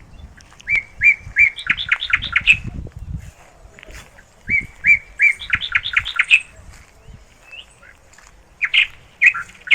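A songbird singing twice, each song a few even whistled notes followed by a quick run of higher notes, with shorter calls near the end. Faint low thuds sound under the first song.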